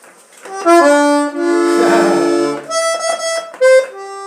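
Scala 120-bass accordion played without words: a chord held for about two seconds, then a few shorter notes and a held note near the end. It sounds out of tune, its reeds put off pitch by bonfire smoke and rain.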